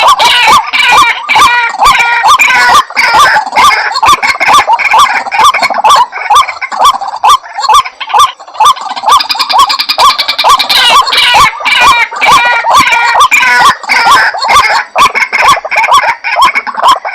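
White-breasted waterhen calling loudly and without pause, a fast run of harsh repeated notes at about three a second, the call hunters play as a lure.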